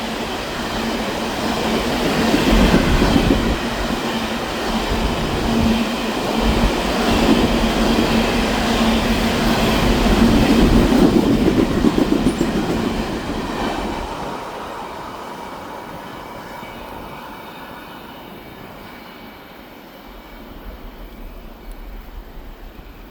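Ballast train cars rolling past on steel rails, wheels clattering over the track with a steady squealing hum. About 14 seconds in the noise begins to fade steadily as the end of the train passes and moves away.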